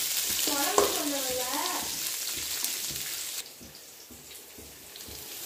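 Sliced onions, green chillies and curry leaves sizzling in hot oil in a pan, stirred with a wooden spatula; the sizzle falls away sharply about three and a half seconds in.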